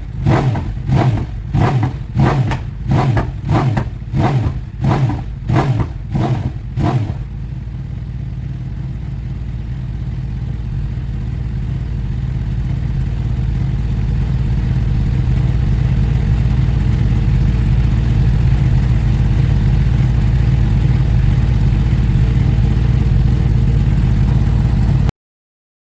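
Yamaha R1M superbike's crossplane inline-four through an Akrapovic exhaust, revved in quick throttle blips about twice a second for the first seven seconds, then settling to a steady, loud running note that grows louder for several seconds and holds. The sound cuts off abruptly shortly before the end.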